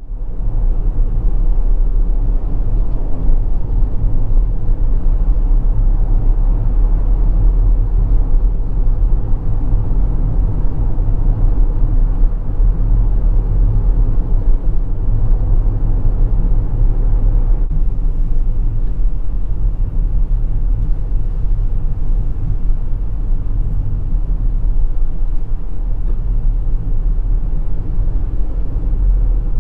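Steady low rumble of road and engine noise inside a moving car's cabin, unbroken throughout.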